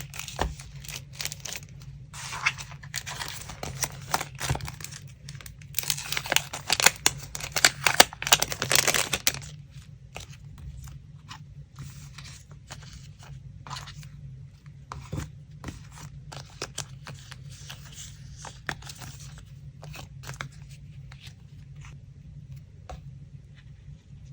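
Paper being handled for a collage: dense rustling and tearing for about the first nine seconds, then only scattered light taps and crinkles.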